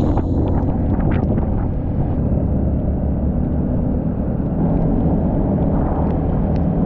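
Honda 150cc dirt bike engine running on the move, buried in a steady low rumble, with a few faint clicks.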